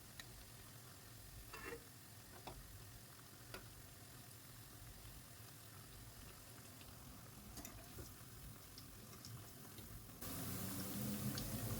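Bread-and-potato samosas deep-frying in hot oil: a faint sizzle with scattered small pops and crackles. The noise steps up sharply near the end.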